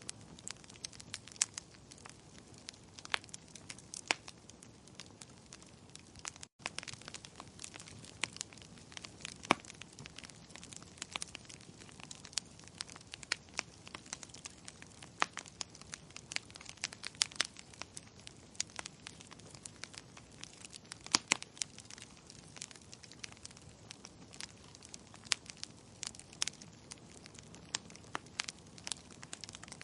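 Wood fire crackling in a fireplace: irregular sharp pops and snaps over a soft steady hiss, with a momentary break in the sound about six and a half seconds in.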